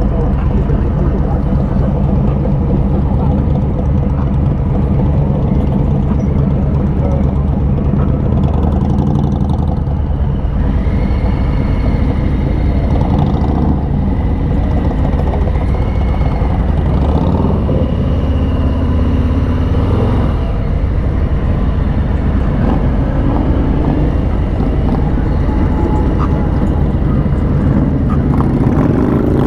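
Harley-Davidson Street Bob's Milwaukee-Eight 107 V-twin engine running steadily under way, loud and unbroken.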